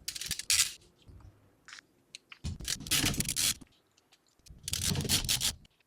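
Scraping and rubbing as an AIO liquid cooler's radiator is fitted against a PC case's mounting bracket, in three short bursts with a few light ticks between.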